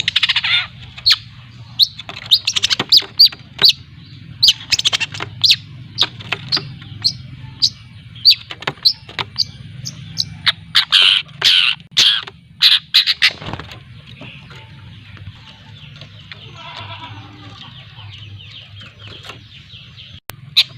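Young long-tailed shrike (cendet) practising its chattering song (ngriwik): loud, sharp calls in quick clusters for most of the first three-quarters, then a softer, continuous twittering warble. A steady low hum runs underneath.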